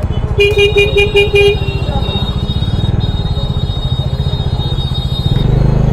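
Bajaj Dominar 400's single-cylinder engine running at a crawl in heavy traffic, with a vehicle horn beeping about six times in quick succession near the start. The engine gets a little louder near the end.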